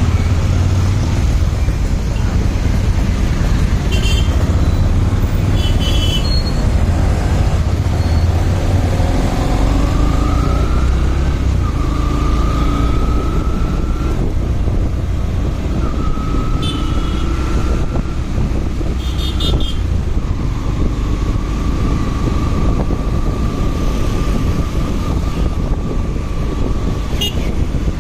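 Motorcycle riding through traffic: steady engine and wind rumble, with a few short horn toots from surrounding vehicles.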